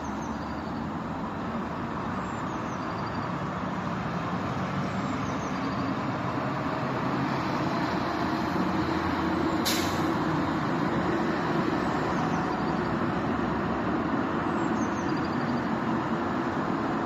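Steady rumble of city traffic, swelling a little towards the middle, with a small bird giving a short high call every couple of seconds and one sharp click about ten seconds in.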